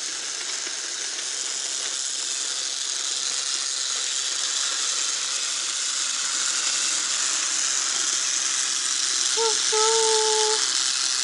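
Motorized toy train running along its track, a steady rattling hiss that grows slowly louder as it approaches. About ten seconds in a short held tone sounds for about a second.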